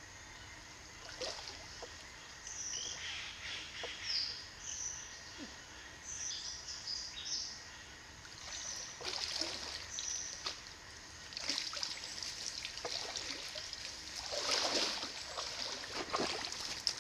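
Water trickling and splashing in a river, with a few louder splashes in the second half. Short, high bird chirps come through in the first half.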